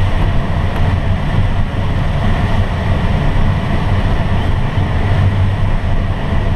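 Steady rush of airflow over a glider's cockpit in flight, a constant low rumble with no engine.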